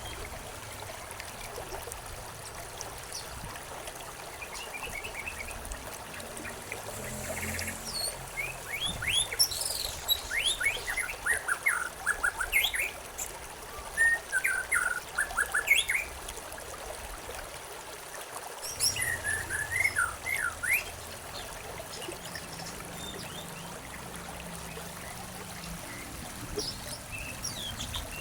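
Songbirds chirping in quick clusters of short, falling notes over the steady trickle of a flowing stream; the birdsong is busiest in the middle, with a few more chirps near the end.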